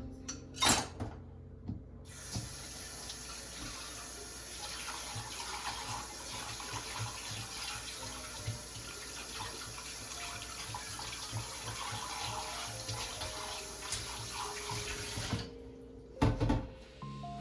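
Tap water running into a sink as a steady rush for about thirteen seconds, starting about two seconds in and shut off near the end. A knock comes shortly before the water starts and a clatter just after it stops.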